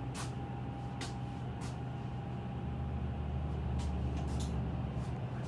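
Steady low mechanical hum with a faint steady whine above it, broken by a few light clicks and knocks.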